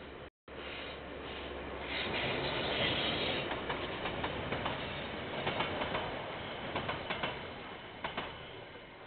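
A KiwiRail train rolling past, the rumble of its wagons swelling after a couple of seconds, with wheels clicking over rail joints and fading near the end. The audio cuts out briefly just after the start.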